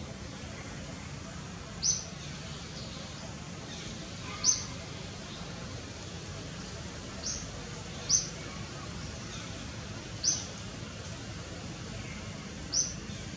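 A bird giving short, high chirps, six single calls a couple of seconds apart, over a steady low background hum.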